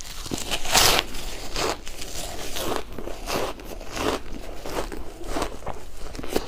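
Shaved ice being bitten and chewed: a run of crisp crunches about two a second, with the loudest bite about a second in.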